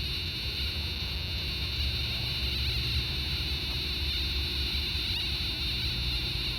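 RF meter's audio output giving a steady electronic buzz as it picks up microwave signals from a nearby cell tower.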